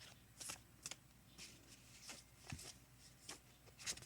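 Oracle cards being handled and shuffled: a series of soft, irregular card rustles and flicks.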